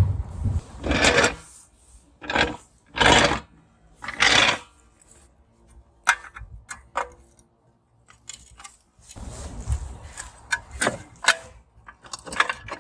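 A car jack being worked to lift the car, in separate strokes about a second apart, with scattered metallic clicks and rattles between them.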